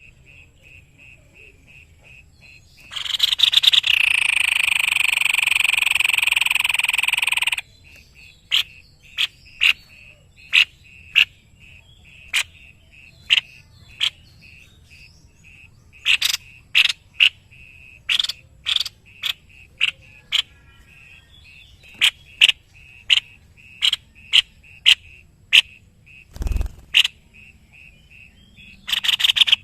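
White-necked babbler calling: one harsh, buzzy call lasting about four and a half seconds, then a long irregular series of short, sharp notes. A steady, fast pulsing runs underneath throughout, and a single thump sounds near the end.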